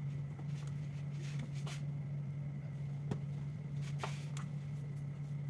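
A few light clicks and taps of small tools and parts being handled during a phone repair, over a steady low hum.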